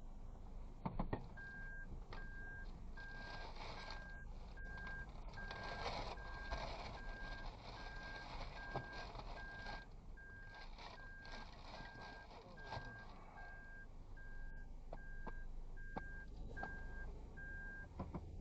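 A vehicle's electronic warning beeper sounding one steady high tone over and over, a bit under two beeps a second, starting about a second and a half in and stopping just before the end, over the low rumble of the vehicle.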